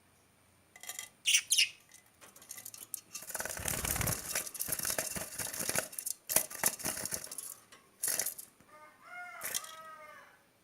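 Lovebirds flapping their wings in a long flurry of rustling, with two short high chirps before it and a short call near the end.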